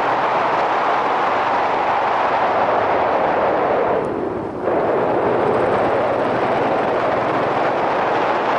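Wind rushing over a helmet-mounted camera on a moving Yamaha SRX400 motorcycle, with its single-cylinder engine running faintly underneath. The rush dips briefly about four seconds in.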